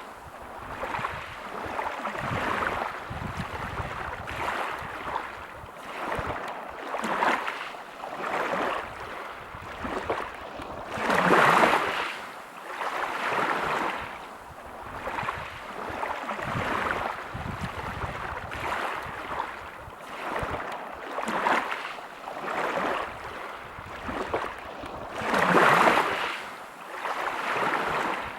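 Sea waves breaking on a pebble beach and washing back over the stones, swelling and falling every couple of seconds, with a bigger wave about eleven seconds in and another near the end.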